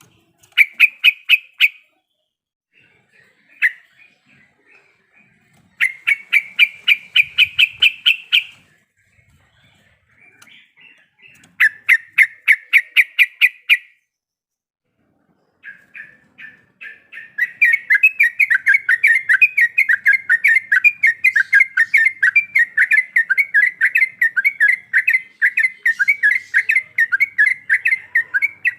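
Yellow-vented bulbul (trucukan) singing in rapid runs of repeated notes. Three short bursts come first, then about halfway through a long unbroken trill runs on.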